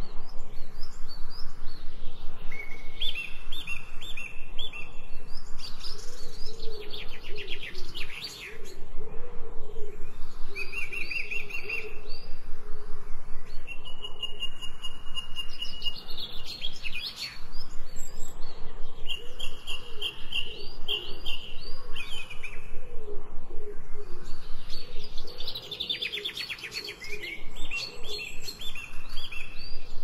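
Several birds singing and chirping: short repeated whistled notes and quick trills, with lower wavering calls beneath them.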